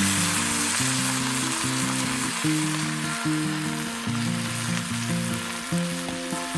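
Food sizzling in a hot pan, a steady frying hiss that fades toward the end, over background music.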